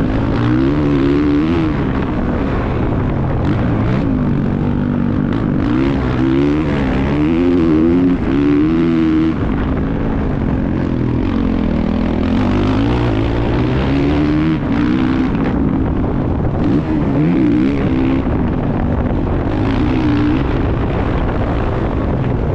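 Motocross bike engine being ridden hard, its revs rising and falling over and over as the throttle is worked and gears change. Heard on board from a helmet camera, with a rough rumble of wind and motion under the engine note.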